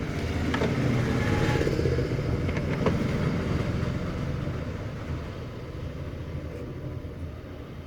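A motor vehicle's engine running past, its hum swelling over the first couple of seconds and then slowly fading, with a couple of light clicks.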